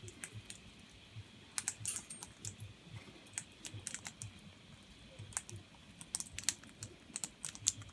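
King parrots feeding: irregular sharp clicks as their beaks work at the food, a few every second.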